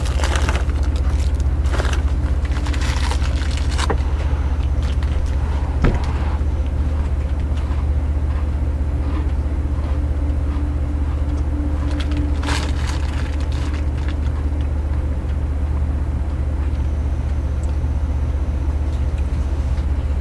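A steady low mechanical hum, like running machinery, with a few faint clicks and one sharp knock about six seconds in.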